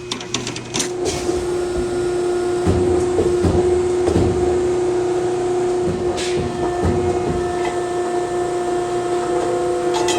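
Powered sheet-metal shear running: a steady machine hum that sets in at the start, with a scattered series of knocks and clunks over it.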